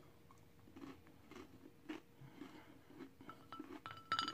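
A person chewing a chocolate-covered pretzel, faint, soft crunches coming about every half second. A few sharper clicks come near the end.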